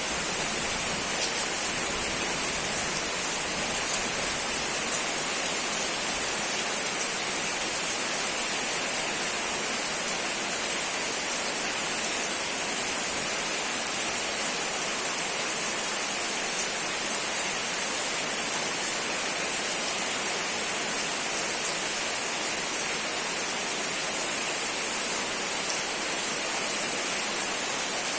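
Steady rain falling, an even hiss that does not change, with the odd faint drop tick.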